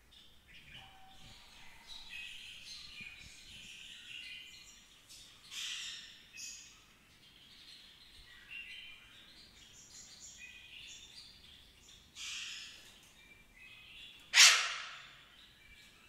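Songbirds chirping and calling in short, repeated notes. About fourteen seconds in comes one loud, noisy burst that fades away over about a second.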